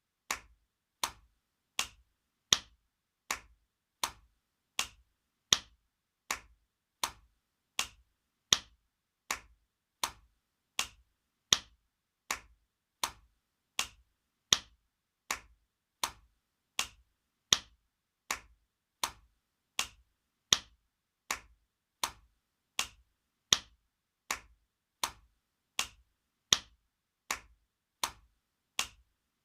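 Spanking sound effect: sharp slaps repeated about every three-quarters of a second in an even loop, with now and then a louder one.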